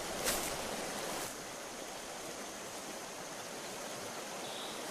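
Jungle ambience: an even, steady rushing noise, with one short sharp crackle about a third of a second in.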